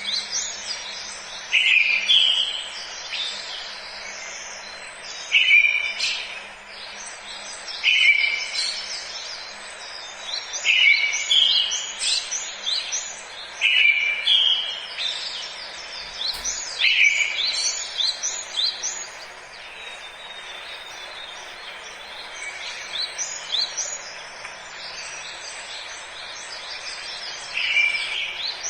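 Forest birdsong: several birds singing, one repeating a short phrase every couple of seconds among higher chirps, over a steady background hiss. The singing thins out after the middle and picks up again near the end.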